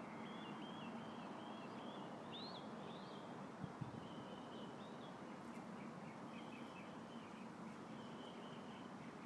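Small birds chirping and twittering repeatedly over a faint, steady outdoor hiss of light wind with a low hum beneath. Two brief soft knocks come a little under four seconds in.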